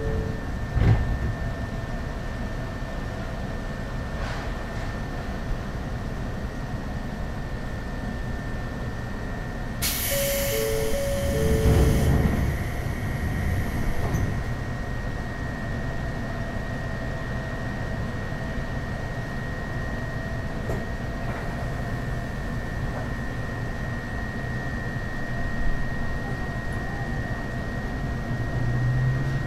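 Ryutetsu 5000-series electric train standing at a station, with a steady hum and a constant high whine from its onboard equipment. About ten seconds in comes a sharp burst of air hiss with a two-note chime.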